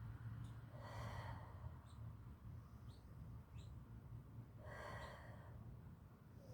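Two slow, audible breaths, each lasting about a second, about a second in and again near five seconds in, from a woman holding a yoga stretch. A few faint short high chirps fall between them over a low steady hum.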